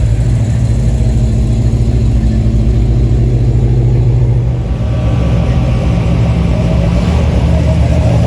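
A car engine running loudly with a deep, low rumble; the sound shifts about five seconds in.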